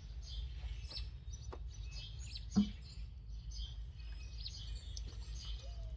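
Small birds chirping and twittering in the background over a steady low rumble, with a single sharp knock about two and a half seconds in.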